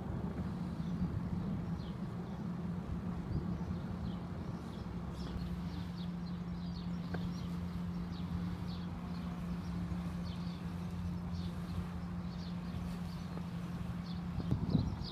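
Small birds chirping in short high calls over a steady low hum and rumble, with a brief louder bump near the end.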